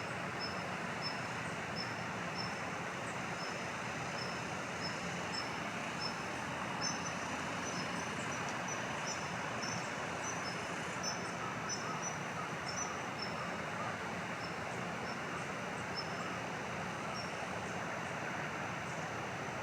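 Steady rushing background noise with a long series of short, high-pitched bird chirps, about two a second.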